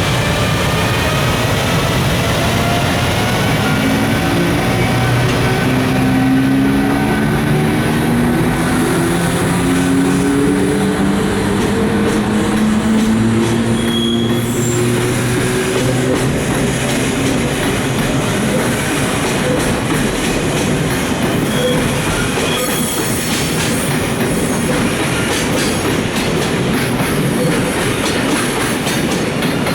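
Departing freight train: the EF510 electric locomotive's traction motors whine in several tones that slowly rise in pitch as it gathers speed. The container wagons roll past with a steady rumble, and from about twenty seconds in the wheels clack over rail joints.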